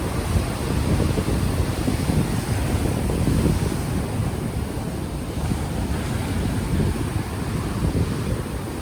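Ocean waves washing onto a beach, mixed with heavy wind buffeting on an unshielded microphone that fills the low end with rumble.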